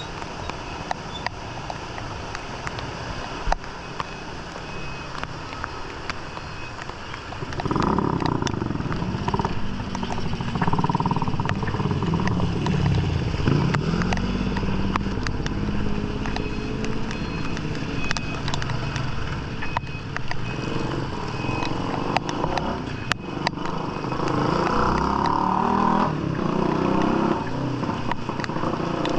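Motorcycle engines running close by, coming in loud about a quarter of the way through, their pitch rising and falling as they rev and pass. Before that there is a steady background hiss with scattered clicks.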